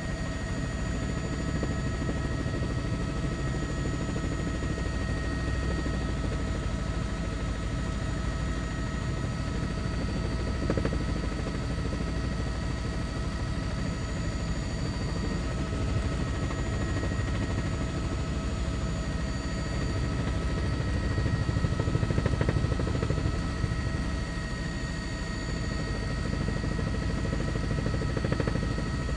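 News helicopter running in flight: a steady low rumble with several constant high tones held throughout.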